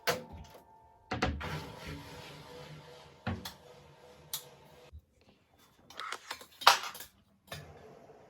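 Separate clinks and knocks of dishes and utensils being handled, half a dozen at uneven spacing, the loudest about two-thirds of the way through. Soft piano music ends in the first second.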